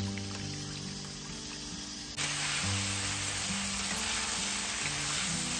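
Flat beans sizzling in a black iron wok: a loud, steady frying hiss that starts suddenly about two seconds in, under background music. Before it, faint splashing of hands washing greens in a basin of water.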